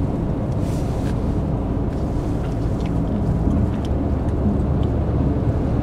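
Steady low rumble of a car driving on a snow-covered road, heard from inside the cabin, with a few faint ticks.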